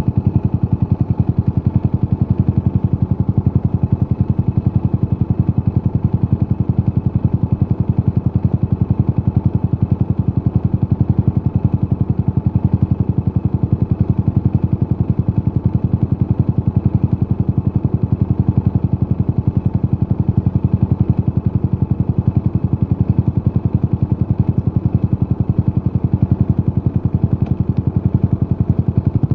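Yamaha SR400's air-cooled single-cylinder four-stroke engine running at a steady speed through a Peyton Place conti muffler, a fast, even train of exhaust pulses with no revving.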